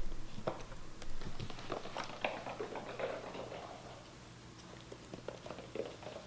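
Kittens scampering and playing, their paws pattering in quick irregular taps and thumps. The taps are busiest and loudest in the first three seconds, then thin out to a few scattered ones.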